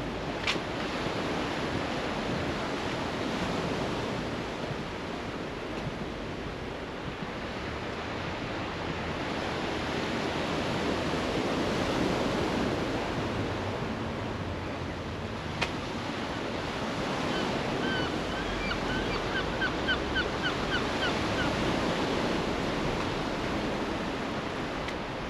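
Sea waves breaking and washing up a beach, the surf swelling and ebbing every several seconds, with some wind. A quick run of short high chirps comes in about two thirds of the way through.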